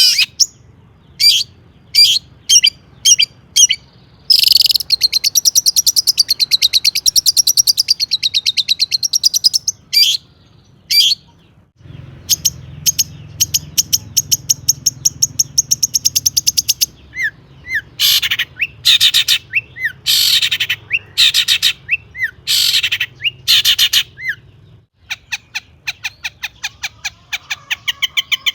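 Long-tailed shrike (cendet) singing a loud, varied song full of mimicked phrases: sharp single notes at first, then two long rapid trills, then a run of harsh, scratchy calls.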